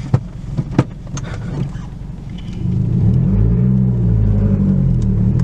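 Mazdaspeed 6's turbocharged 2.3-litre four-cylinder, running through a 3-inch downpipe and mid-pipe, rumbles at idle with a few clicks and knocks, then about two and a half seconds in gets much louder as the engine pulls under light throttle, its pitch wavering a little.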